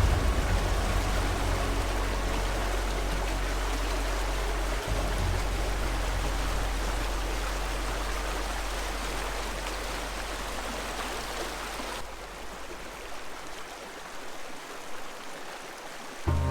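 Floodwater rushing, a steady noisy rush of running water, with a low rumble underneath that fades out after about ten seconds.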